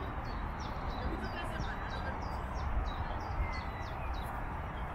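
Small birds chirping in a quick series of short, high, down-slurred calls, about three a second, over a steady low rumble of wind on the microphone.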